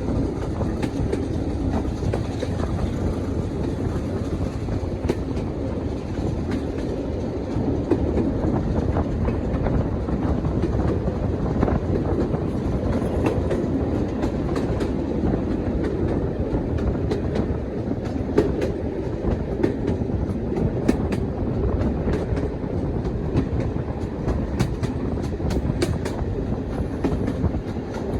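Diesel-hauled train running steadily, with a continuous low rumble and its wheels clicking over the rail joints.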